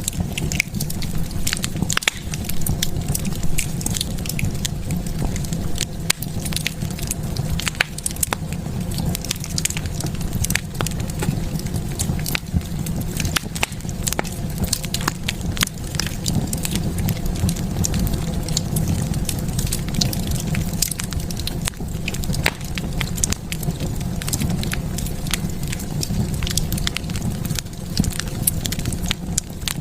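Fireplace fire crackling: frequent irregular pops and snaps over a steady low rumble of the flames.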